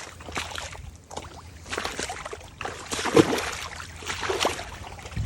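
Water splashing and sloshing in a shallow creek in irregular bursts, the loudest about three seconds in, over a steady trickle of flowing water.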